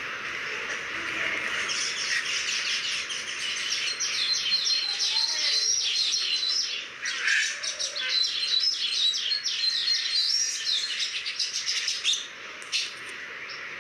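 Birds chirping: many quick, high calls packed close together, thinning out near the end.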